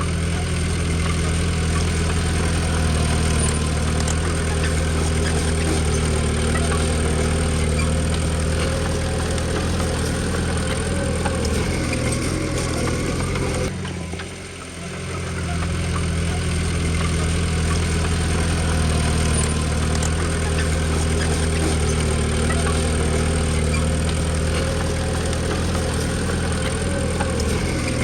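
Komatsu D20P bulldozer's diesel engine running steadily, dropping off briefly about halfway through and then coming back up.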